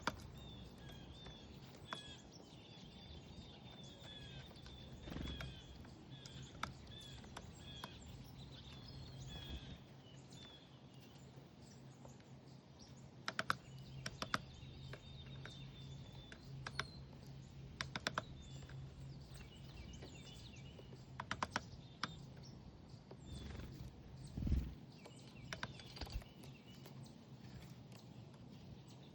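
Small backyard songbirds chirping in quick runs of short, high notes, with scattered sharp clicks and a faint steady low hum underneath.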